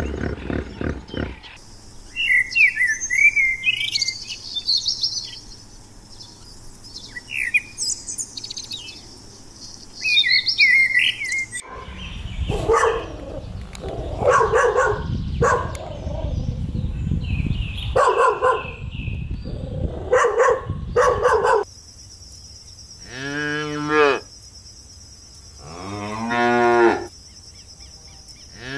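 Small birds chirp in short high bursts for the first several seconds. A dog then barks repeatedly for about ten seconds. After that a cow moos three times near the end, each moo a long call of one to two seconds.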